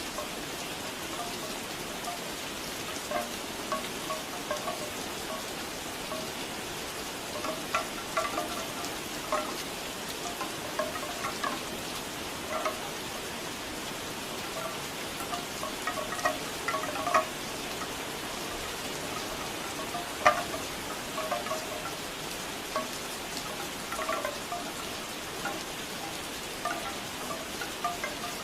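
Steady rain with bamboo wind chimes knocking irregularly, in loose clusters of short hollow clacks over the hiss of the rain.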